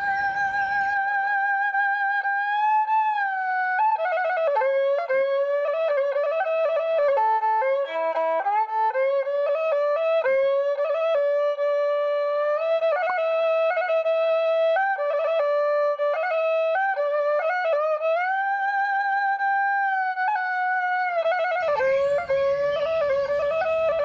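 Slow solo instrumental melody: a single line of held, wavering notes with slides between them, in a traditional style. A background hiss of nature ambience drops away about a second in and comes back near the end.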